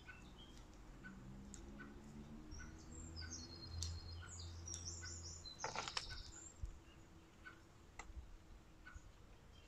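Small birds chirping faintly outdoors, with short high chirps and a soft repeated tick, over a low steady drone. A brief rustling noise comes about six seconds in.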